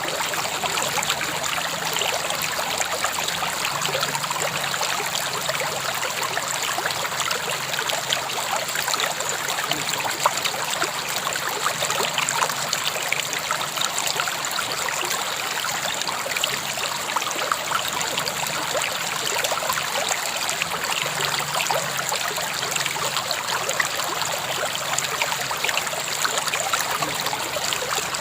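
River water flowing and trickling over stones, a steady babbling without break.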